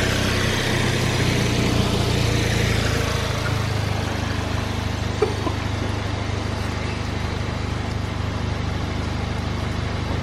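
Audi S3's turbocharged four-cylinder engine idling steadily, fitted with an aftermarket turbo inlet and a turbo muffler delete. A single light click about five seconds in.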